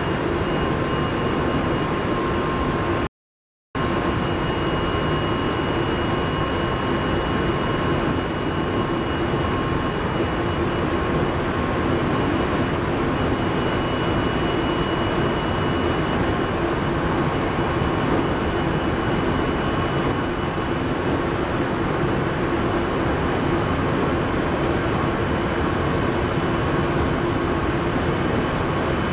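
JR Central 373 series electric train running steadily at speed: continuous rumble of wheels on rail with steady tones. A faint high whine comes in about halfway and stops about ten seconds later, and the sound cuts out completely for about half a second around three seconds in.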